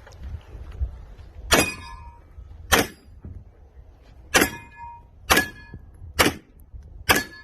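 Pistol shots on a steel-target course: six sharp shots in about six seconds, unevenly spaced, several followed by a short ring from steel plates being hit.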